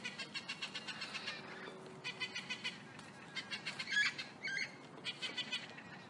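Birds chirping in fast trains of short repeated notes, with a few louder, sharper calls about four seconds in.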